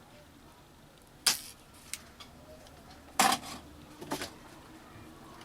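Sharp clicks and knocks of hand tools at work while a zener diode is being desoldered from a TV circuit board: three loud clicks about a second or two apart, with a few lighter ticks between.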